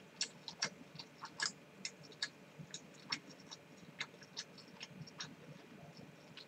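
Someone chewing food: faint, irregular crunchy clicks, a few a second.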